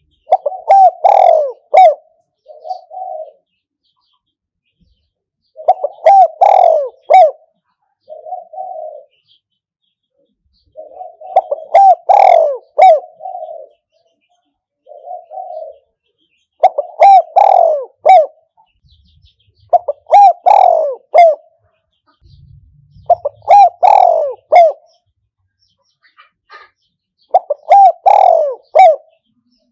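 Spotted dove cooing as a decoy call to lure wild doves. A loud two-second cooing phrase repeats seven times, four to six seconds apart, and some phrases end with a short, softer coo.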